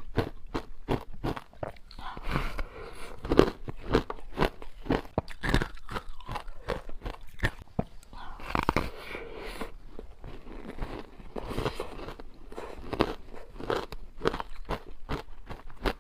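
Bites into wet frozen matcha ice, a quick run of sharp crunches close to the microphone, with denser crackling stretches in between.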